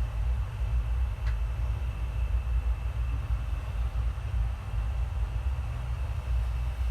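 Passenger train running, heard from on board: a steady low rumble with a faint steady whine above it and one light click about a second in.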